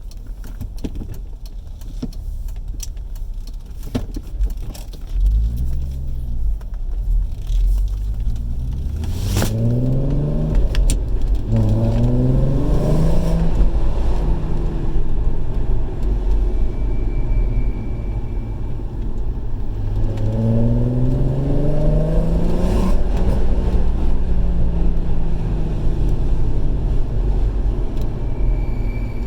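Mk4 VW Golf R32's 3.2 VR6 engine pulling up through the revs twice while driving. Twice, a few seconds after each climb, a faint high-pitched whine shows briefly. It is the lift-off whine whose cause the owner cannot place, which he hears from the passenger side of the car.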